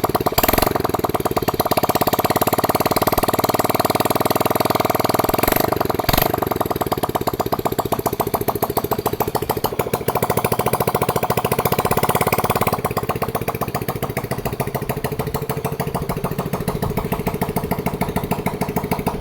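Motorcycle engine fitted to a homemade mini buggy, running steadily with rapid, even firing pulses; about two-thirds of the way through it drops to a slightly lower, quieter running.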